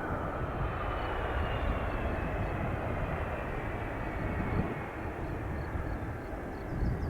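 USAF Boeing C-17A Globemaster III's four Pratt & Whitney F117 turbofans running: a steady jet roar and rumble with a faint whine slowly falling in pitch. A bird chirps near the end.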